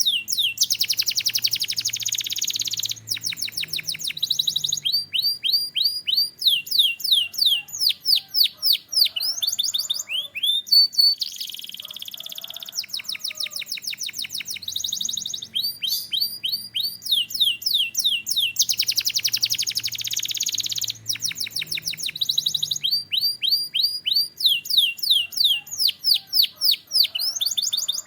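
Domestic canary singing a long continuous song of fast trills made of quick falling notes, broken now and then by dense buzzy rolls.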